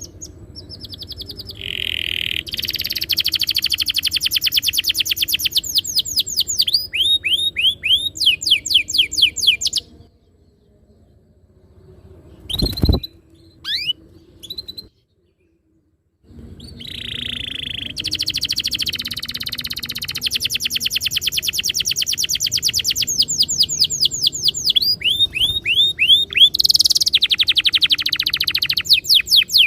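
Domestic canary singing long, very fast rolling trills of high notes. About ten seconds in the song breaks off for several seconds, with a single sharp click and a few short chirps, then the trills resume.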